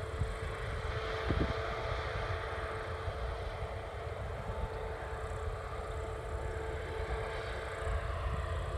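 Harvest machinery running steadily: a constant engine drone and low rumble with a steady high whine over it, and a couple of short knocks in the first second and a half.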